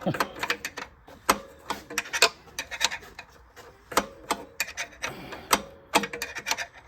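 Irregular metallic clicks, clinks and scrapes of wrenches working on a car starter's mounting bolts.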